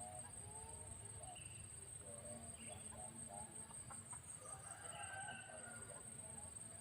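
Faint run of short bird calls repeating throughout, over a steady high-pitched insect drone.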